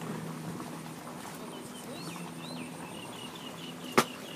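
A small bird chirping: a run of short, quick repeated chirps over a faint steady low hum. A single sharp click about four seconds in is the loudest sound.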